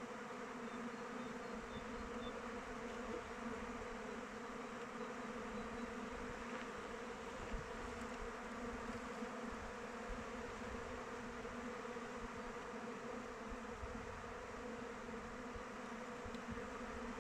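A swarm of honey bees flying around their hive: a steady, dense buzzing hum of many wingbeats.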